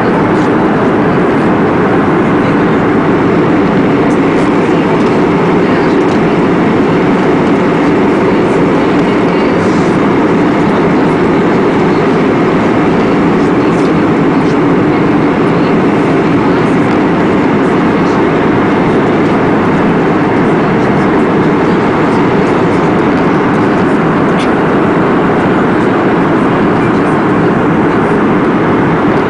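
Loud, steady rumbling noise that stays the same throughout, with no separate thunderclaps standing out.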